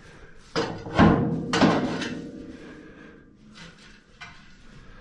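Three loud knocks or bangs in quick succession in the first two seconds, each ringing away briefly, then a few fainter clicks.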